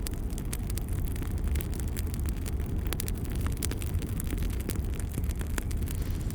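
Wood fire burning in a fireplace: a steady low roar of flames with scattered sharp crackles and pops from the logs.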